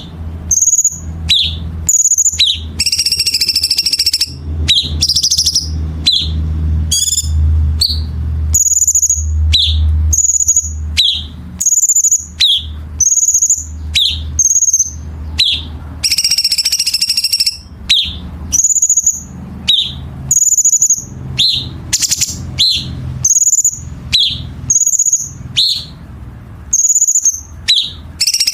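Cucak cungkok song: sharp, quickly repeated calls, each a short falling note followed by a high whistle, with a few longer harsh, buzzy rattles mixed in. A low hum sits under the first half.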